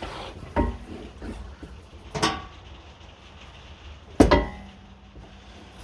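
Metal clanks from a Rover 620's old rear exhaust box and pipe as it is wrenched to free it from its rubber hangers: three knocks a second or two apart. The last is the loudest and leaves the pipe ringing briefly.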